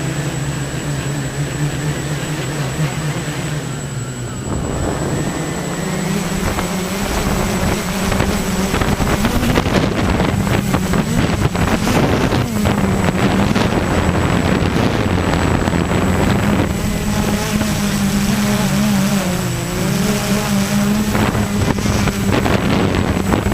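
A motor engine running steadily, its pitch shifting up and down a few times, with rushing wind noise over the microphone.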